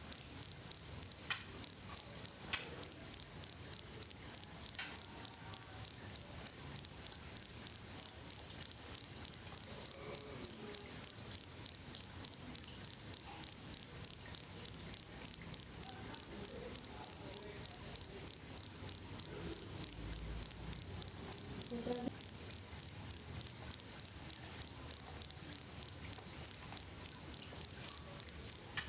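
Field cricket (jangkrik) chirping: one high-pitched tone pulsed in rapid, even chirps, several a second, without a break.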